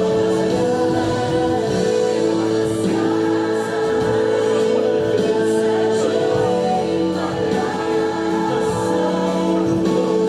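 Gospel choir singing over instrumental accompaniment, holding long sustained notes.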